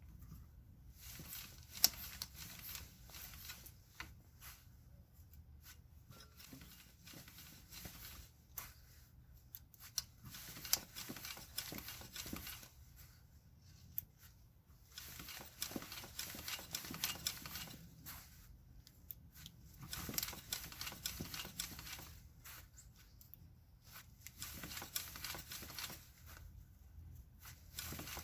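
Faint, intermittent rustling and scraping handling noises with scattered clicks; the sharpest click comes about two seconds in.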